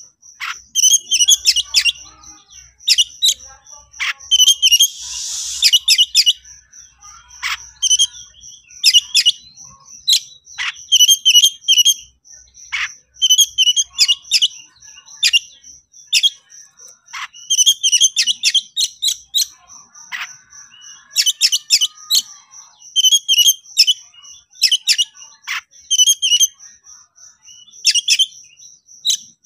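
Oriental magpie-robin (kacer) singing excitedly: short bursts of rapid chirped phrases about every second, mixed with sharp falling whistled notes. A steady, rapid high-pitched ticking runs underneath.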